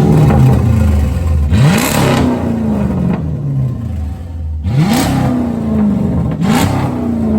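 2006 Dodge Magnum's 5.7 HEMI V8 revved in quick throttle blips, three times, each rev jumping up sharply and sliding slowly back toward idle. It runs through a muffler and resonator delete, with only the catalytic converters and an X-pipe.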